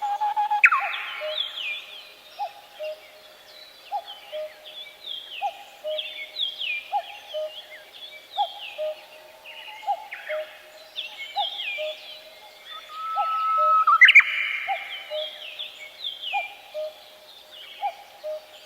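Several birds singing in a forest. A low two-note call repeats steadily about every three-quarters of a second under many quick, descending, higher-pitched phrases. A louder call stands out about a second in and again near fourteen seconds.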